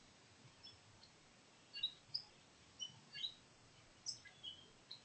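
Faint birdsong from small birds: short, high chirps, scattered and irregular, coming more often from about two seconds in.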